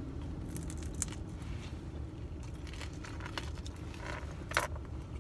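Crunching and crackling of a crisp fried beef sambusa's pastry as it is bitten into and chewed: a few short sharp crunches scattered through, the loudest a little before the end, over a low steady rumble.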